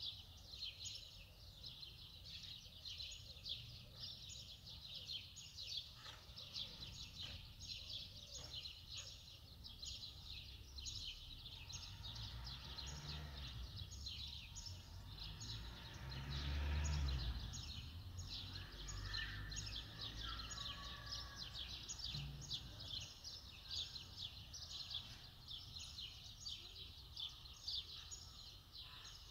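Small birds chirping quickly and without a break, faint throughout, with a low rumble about halfway through.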